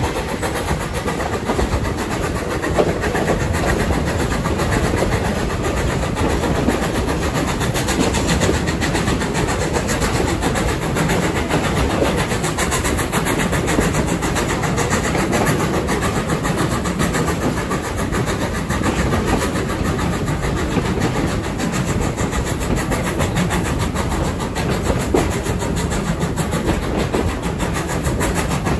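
Steam-hauled heritage passenger train running along the track, heard from an open carriage window: a loud, steady rush and rumble of the moving train that holds the same level throughout.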